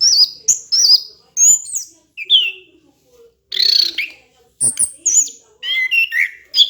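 Orange-headed thrush singing a fast, varied run of whistled notes, many of them sliding down in pitch. There is a short pause near the middle, followed by one harsher, rasping note.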